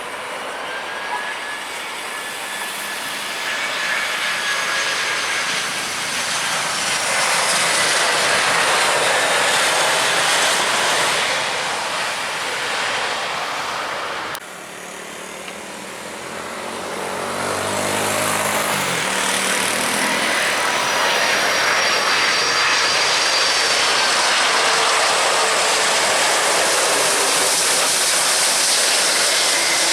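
Airliner engines passing close by: a loud steady rush with whining tones that slowly fall in pitch. About halfway through it cuts off abruptly, and a second passing airliner builds up, its pitch falling, and becomes louder still.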